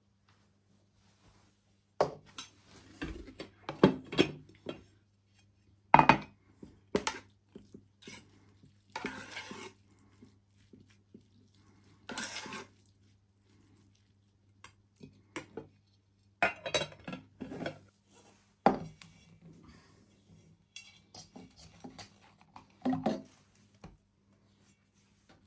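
Kitchen utensils and dishes clinking, knocking and scraping in irregular bursts during food preparation, over a faint steady low hum.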